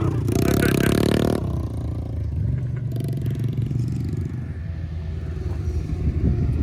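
Small pit bike engine revving hard for about a second near the start, then running at lower revs with a steady rumble.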